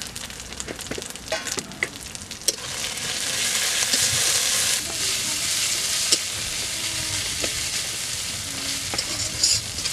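Onions and spice powder sizzling in a metal wok while a spatula stirs and scrapes the pan. The frying hiss swells about two and a half seconds in, with scraping ticks from the spatula.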